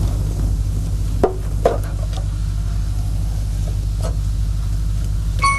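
A box being handled: two light knocks a little over a second in and a fainter one later, over a steady low hum. Chiming music notes start just before the end.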